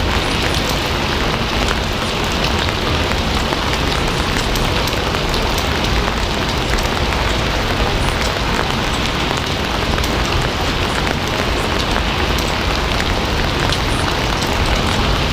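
Steady rain falling on a surface: an even, continuous hiss with scattered small drop ticks.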